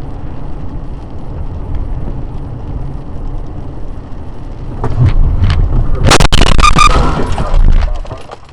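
Steady low road rumble of a moving car, then about five seconds in a few sharp knocks and a loud crash lasting about two seconds, with a high tone sounding through it, before it cuts off near the end.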